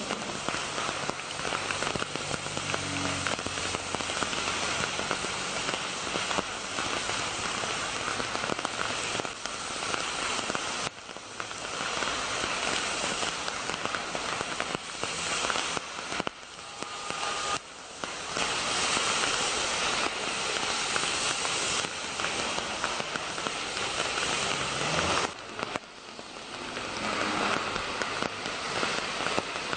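Heavy rain pouring onto a busy road, a dense steady hiss with cars driving through it; a vehicle engine runs low under the rain in the first few seconds. The hiss drops away and comes back abruptly a few times.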